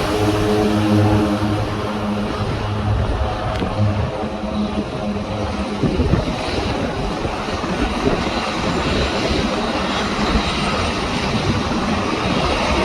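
Propeller aeroplane engines running loud. Steady engine tones in the first few seconds give way to a broad, even rushing noise for the rest.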